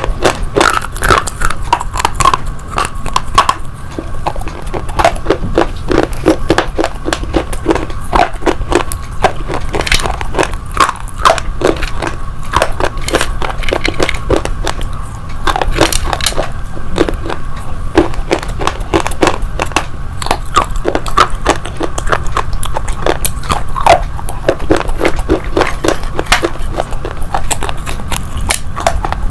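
Pieces of slate and slate pencil being chewed close to a lapel mic: dense, irregular crunching and gritty crackling that goes on without a break.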